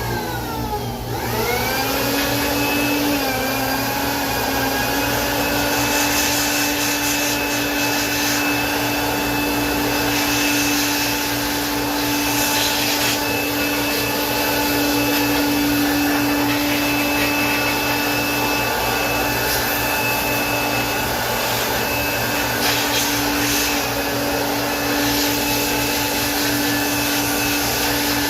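Electric air blower spinning up about a second in, then running steadily with a high motor whine, blowing out a fridge condenser. A few brief surges of rushing air come and go.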